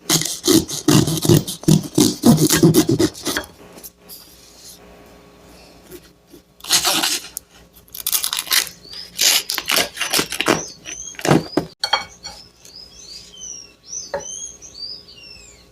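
A knife sawing through a freshly baked panettone, with its crust and paper mould crackling in quick rough strokes for the first few seconds, then a few more scattered strokes. Small birds chirp repeatedly in short rapid notes through the second half.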